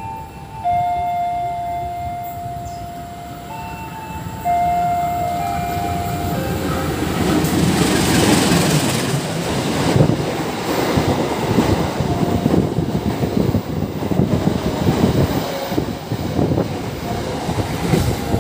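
A diesel-electric locomotive sounds its horn in several long blasts that step between a few pitches as it approaches. From about seven seconds in, the locomotive and its passenger carriages pass close at speed, a loud rush of air with wheels clattering over the rail joints.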